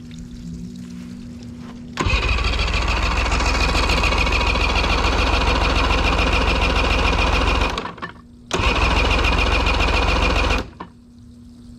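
Two-stroke outboard motor being cranked over by its electric starter in two bursts, a long one of about six seconds and then a short one of about two, each cutting off suddenly, as the motor is tried on freshly mixed fuel.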